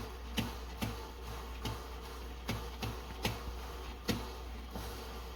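Coffee percolator perking: short pops about two to three times a second as the boiling water spurts up the stem, over a steady low hum.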